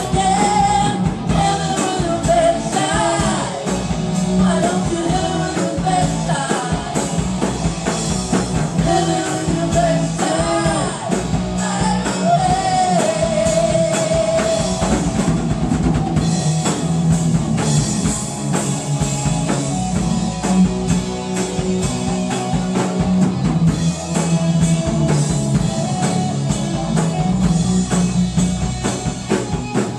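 Live rock band jamming on drum kit and guitar. A singer's voice carries over roughly the first half, and the band plays on without it after that.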